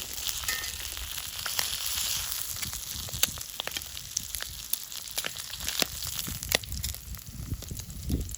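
Thick-cut bacon and eggs frying in oil in a pan over a campfire: a steady sizzle with frequent sharp pops of spitting fat.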